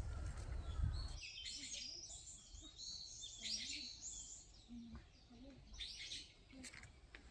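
Wild songbirds chirping and singing in short bursts of high, quick notes. A low rumble underneath stops about a second in.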